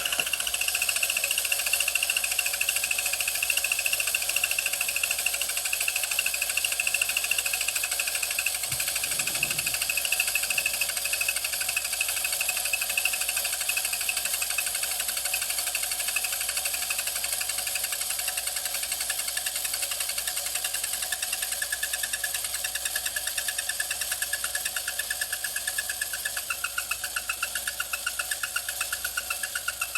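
Clockwork motor of a 1950s TPS Japan wind-up tin flying-birds toy running with a rapid, even clatter. It slowly weakens as the spring unwinds.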